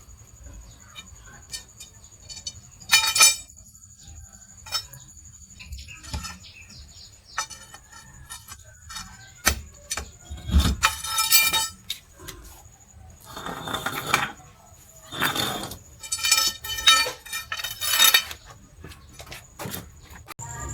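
Metal parts and hand tools clinking and clattering, with several short ringing metallic knocks.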